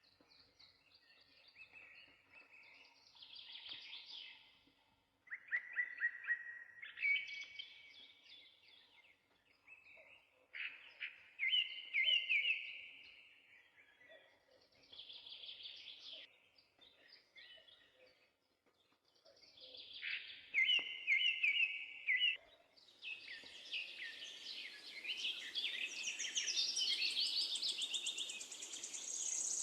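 Songbirds singing in short, repeated phrases a few seconds apart. Past the two-thirds mark the singing becomes a denser, overlapping chorus and a steady hiss rises beneath it.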